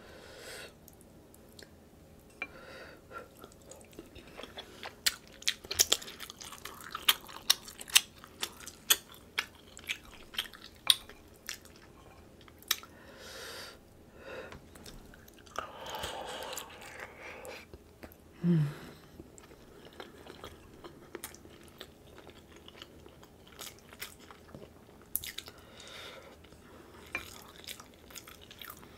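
Close-miked eating sounds: wet chewing with many sharp lip and tongue smacks as sauce-coated crab meat and boiled egg are eaten, with a short hum of the voice about eighteen seconds in.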